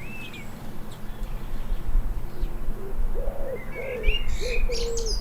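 A pigeon cooing: a run of about five low, even coos beginning about three seconds in, with small garden birds chirping briefly over it.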